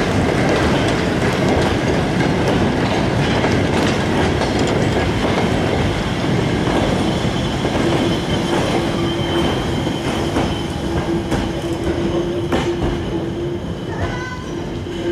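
Train of four-wheeled goods wagons and a brake van rolling past, with a dense rumble and scattered knocks from the wheels. The rumble eases after the brake van goes by about eight seconds in, and a steady low tone carries on almost to the end.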